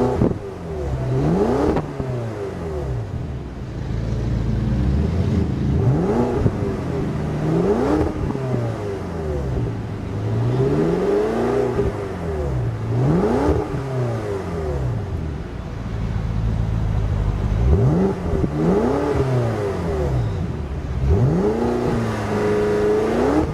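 2012 BMW X5 M's twin-turbo V8 revved repeatedly from idle: about seven throttle blips, each rising and falling back, the last held briefly near the end.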